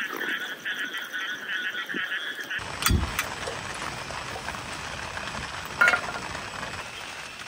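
Rain falling, with a fast chorus of repeated animal calls over it for the first two and a half seconds. The calls then stop abruptly and steady rain remains, with a dull thump about three seconds in and a sharp click near six seconds.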